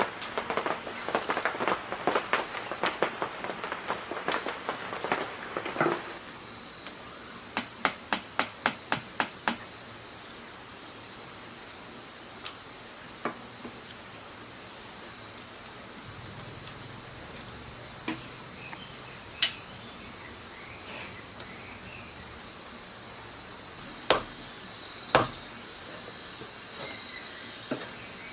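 Rapid scraping and clattering of hand work for about six seconds, then a run of about eight sharp taps and a few single knocks later on. From about six seconds in, a steady high insect trill runs underneath.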